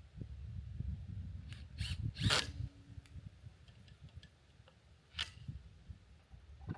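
A few short scraping and rustling noises from hand work with hardware, clustered about two seconds in and again about five seconds in, over a low rumble.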